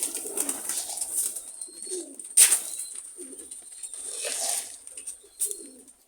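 Domestic pigeons cooing repeatedly while they feed on scattered grain, with short rustling bursts among them, the loudest about two and a half seconds in.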